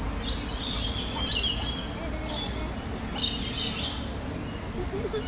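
Small birds chirping in quick twittering runs, one about a second in and another just past three seconds, over a steady low background hum.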